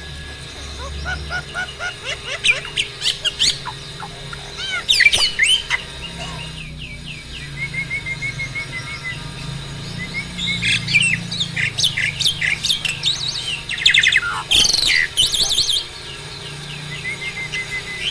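Jalak starling, a mature male in breeding condition, singing a busy, varied song of chirps, whistles and harsh squawks, with a run of quick, even notes partway through and the densest, loudest calling in the second half.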